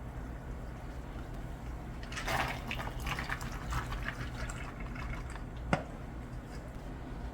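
Liquid being poured into a container for about two seconds, followed by a single sharp click, over a steady low kitchen hum.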